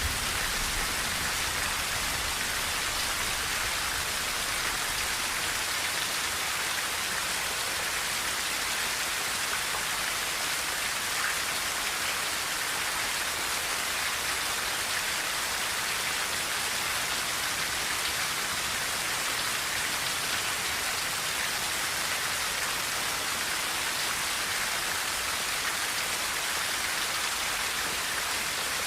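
Steady rain falling on a tin roof, an even hiss that holds at the same level throughout without pauses.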